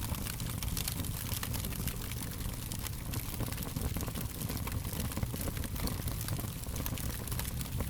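Fire crackling: a dense run of small irregular pops and snaps over a steady low rumble.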